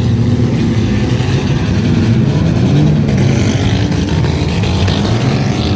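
Several engines of demolition-derby trucks and tractors running hard and revving at once, their pitches rising and falling over one another.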